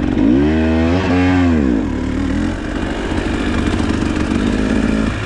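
Dirt bike engine revving up and back down twice in the first two seconds, then running at a steady pitch.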